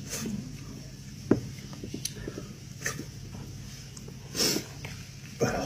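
Close-up mouth sounds of a man eating boiled sheep's head meat: chewing and lip smacks, heard as scattered sharp clicks. There is a short breathy sound about four and a half seconds in.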